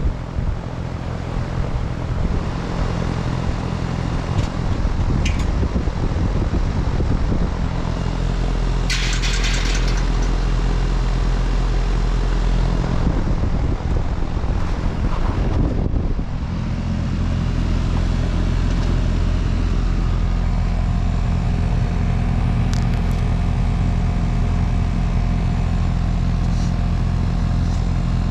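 2019 Goodman GSX14 2-ton air-conditioner condensing unit running: a steady compressor hum under the whoosh of the condenser fan, building up over the first few seconds. A brief hiss about nine seconds in.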